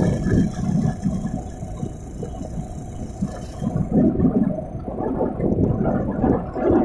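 A vehicle being driven, heard from on board: uneven low rumbling of engine and road noise, rising and falling, with no clear engine pitch.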